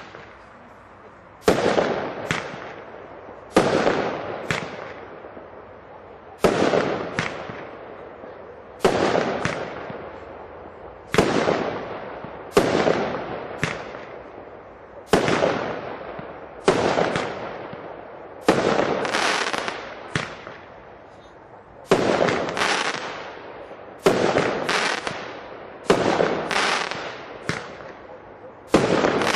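Kometa 'Aruba' P7228 firework battery firing, a steady run of shots about one every one to two seconds, each followed by a fading crackling tail.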